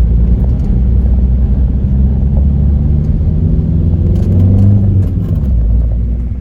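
Camper van engine held at raised revs while driving through a flooded road, keeping water out of the exhaust, over a steady rushing noise. The engine note climbs a little about four seconds in, then drops away near the end.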